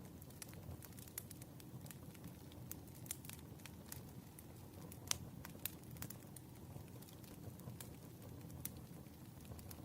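Wood fire crackling: a steady low rumble of burning logs with frequent sharp pops and snaps, one louder pop about five seconds in.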